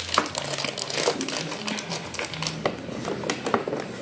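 Irregular light clicks and taps from hands handling small parts, several a second.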